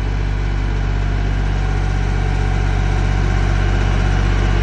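Tractor engine running steadily, growing slowly louder as it works the front loader's hydraulics to raise and tip the bucket and dump the load.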